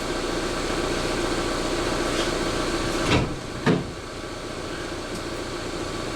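A van door being opened: two sharp clunks about half a second apart, a little past halfway through, over the steady hum of the idling van engine.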